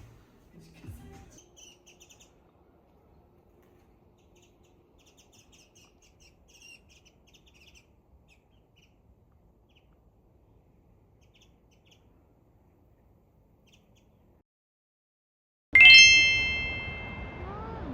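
Faint bird chirps in the first half, then a single loud, bright chime ding near the end that rings out and fades over about two seconds.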